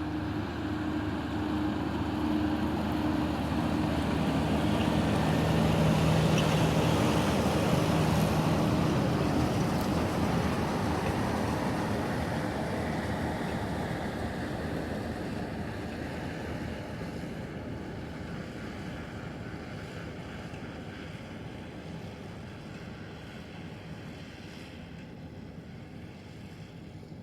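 Engine of a harvest machine passing close by, with steady engine hum, under wind noise. It is loudest about six to eight seconds in, then slowly fades away.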